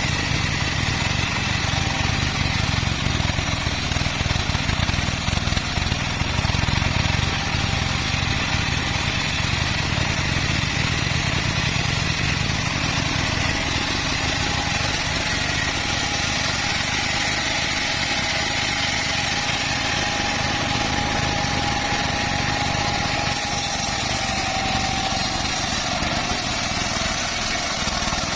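Band sawmill running steadily as it saws teak wood, with a thin whine coming in about halfway through.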